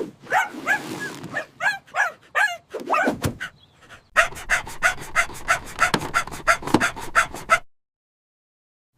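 Dog barking and yipping in a string of short calls. About four seconds in, a fast run of sharp crackling clicks, about six a second, starts and then cuts off suddenly.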